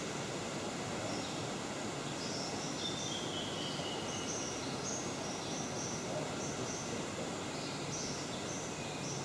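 Forest ambience: birds giving short high chirps, with one falling whistled note about three seconds in, over a steady background hiss.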